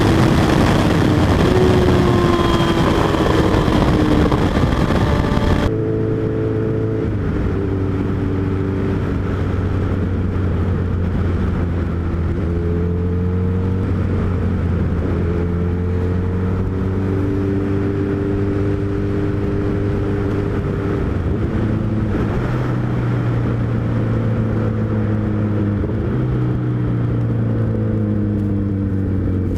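A Suzuki Hayabusa's inline-four engine running under way, its pitch slowly rising and falling with speed. Heavy wind noise is mixed in for the first few seconds and cuts out abruptly about six seconds in.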